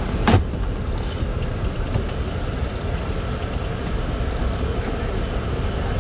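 Steady low rumble of a moving vehicle, with one sharp knock about a third of a second in.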